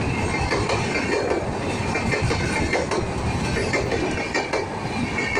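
Passenger coaches of an arriving express train rolling past at close range: a steady rumble of steel wheels on the rails with scattered clicks as the wheels cross the rail joints.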